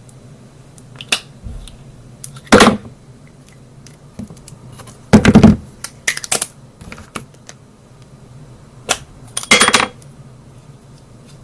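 Cosmetic containers and compacts handled and set down: a few short clattering knocks and rattles, four louder ones among scattered small clicks.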